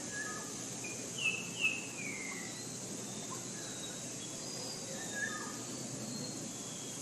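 Forest birds calling over a steady high-pitched hiss. Two loud, short downward chirps come about a second in, followed by a longer falling call, with softer calls again about five seconds in.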